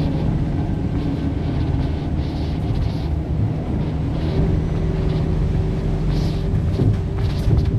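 Scania K230UB city bus's diesel engine running under way, a steady low drone with a higher tone that comes in about halfway through.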